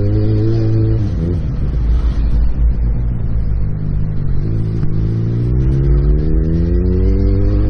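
Motorcycle engine running at speed, easing off about a second in, then rising steadily in pitch through the second half as it accelerates, over a constant low rumble.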